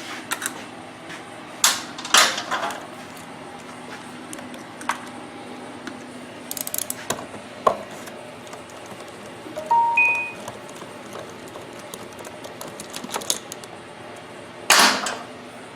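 Scattered metallic clicks and clinks of hand tools and bolts while the valve cover bolts come off a small generator engine, with a short squeak about ten seconds in and a louder clatter near the end.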